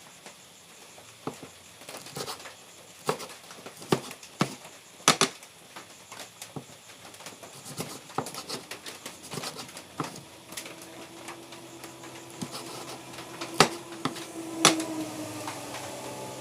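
Kitchen knife cutting ingredients on a cutting board: irregular sharp knocks of the blade, spaced about half a second to a second apart. About ten seconds in, steady tones come in and grow louder toward the end.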